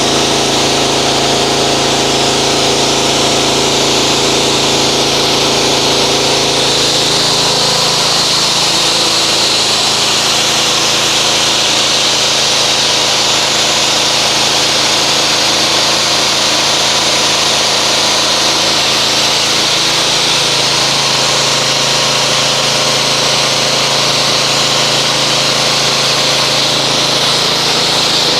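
Pressure washer running steadily, its motor and pump humming under the loud hiss of the water jet as it rinses thick soap foam off a truck.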